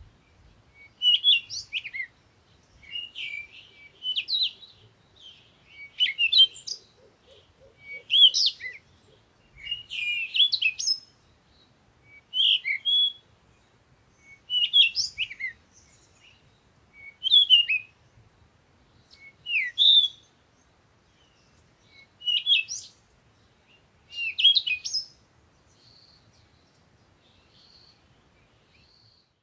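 A songbird singing short, high, warbling phrases, one about every two seconds. The phrases stop a few seconds before the end, leaving only faint, scattered notes.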